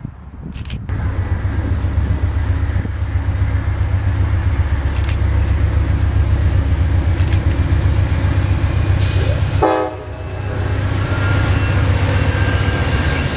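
Amtrak GE P42DC Genesis diesel locomotive passing close at speed, its engine running with a loud, steady low rumble along with the noise of the train. A short horn note sounds about two-thirds of the way through.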